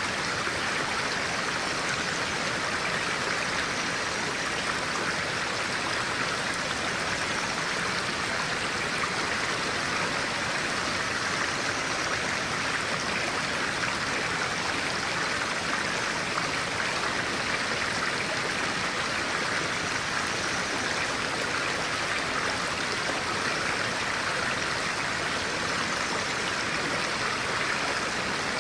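A clear-water stream flowing steadily, an even rush of running water that does not change.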